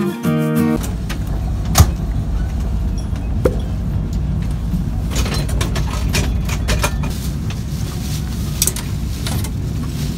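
Steady low rumble of a moving train heard inside a sleeper carriage, with scattered clacks and knocks as the seats and bunks are set up for the night. The sharpest knock comes about two seconds in.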